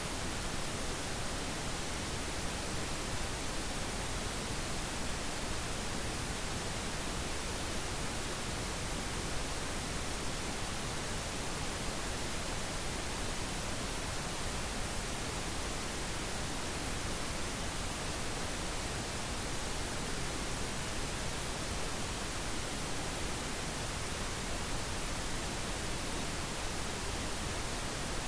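Steady, unchanging synthetic pink noise: an even hiss with no changes or events.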